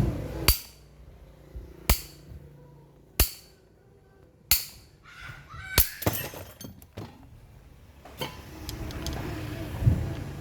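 Hammer striking metal five times at an even pace, about one blow every 1.3 seconds, each with a short metallic ring, followed by a few lighter clinks and taps of metal parts.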